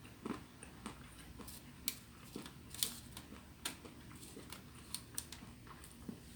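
Someone eating: quiet, irregular clicks and smacks of chewing and mouth noises, about a dozen scattered through a faint room hum.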